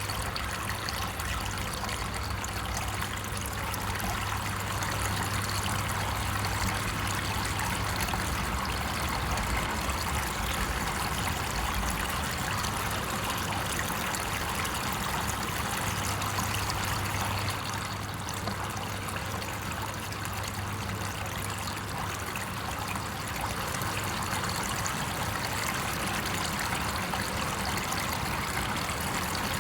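Steady running water, an even trickling flow that stays level throughout.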